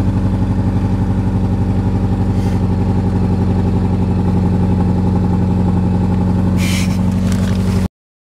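Car engine running with a steady hum, heard from inside the cabin. It cuts off abruptly near the end.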